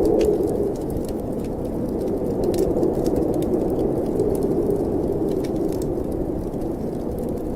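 Snowstorm wind, a steady low rushing that swells and eases, with the scattered snaps of a crackling fireplace fire over it.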